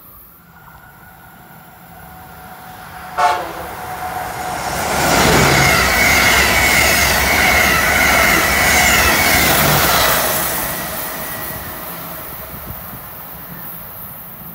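Amtrak Acela Express high-speed trainset passing through: one short horn toot about three seconds in, then a loud rush of wheels on rail for about five seconds that fades as the train recedes.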